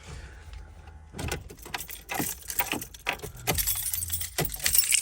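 Metal jangling and clinking in irregular bursts, like keys being handled, starting about a second in over a faint low hum.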